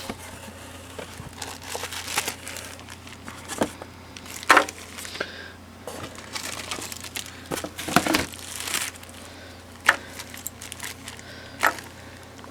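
Plastic packaging crinkling and rustling as it is handled and unwrapped, with irregular short rustles and a few sharp clicks and knocks. A steady low hum runs underneath.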